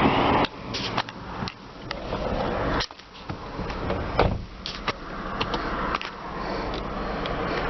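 A string of clicks and knocks with rustling between them, the sounds of handling things in and around a car.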